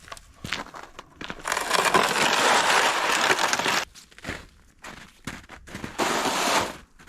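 Rustling, crunching handling noise in two long stretches, the first over two seconds long and the second shorter near the end, with scattered clicks and knocks between.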